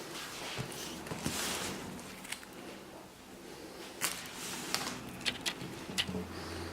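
Rustling of packaging and scattered small clicks and knocks as things are handled during an unboxing, with a few sharper clicks in the second half.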